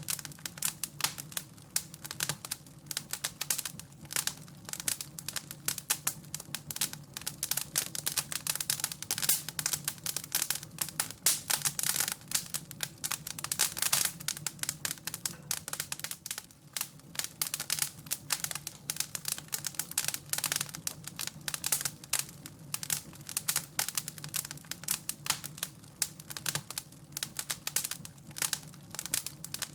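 Wood fire crackling in a fireplace: a dense, irregular stream of small snaps and pops over a faint low steady rumble.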